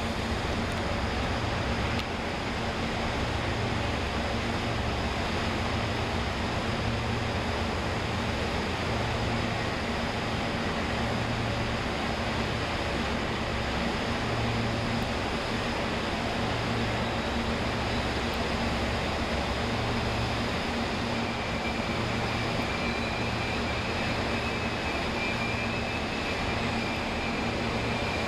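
Train standing at a station platform: a steady rumble with a regular low throb, and a faint high whine that comes in about three-quarters of the way through.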